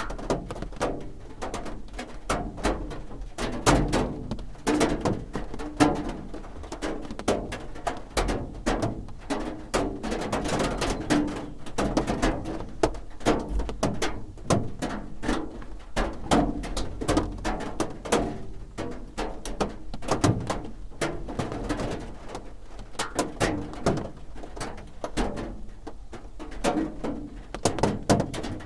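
Rain drumming on a roof: a dense, unbroken stream of irregular drops tapping and knocking.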